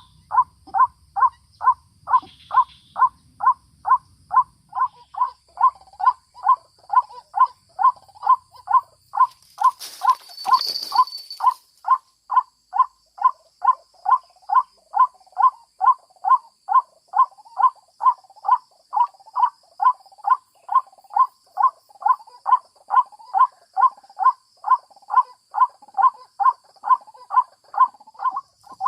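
White-breasted waterhen (ruak-ruak) calling: a short harsh downward note repeated very evenly, about twice a second. A brief rustling noise is heard about ten seconds in.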